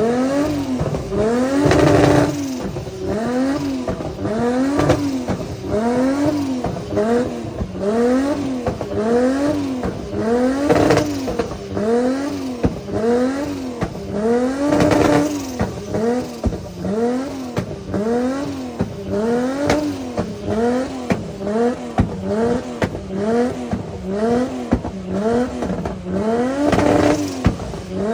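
Car engine revving hard in a steady, repeating rise and fall of pitch about once a second, over and over.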